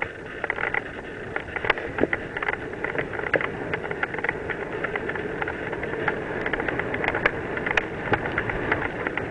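Mountain bike rolling downhill on a dirt trail: a steady rush of tyre noise with frequent sharp rattles and knocks from the bike jolting over bumps.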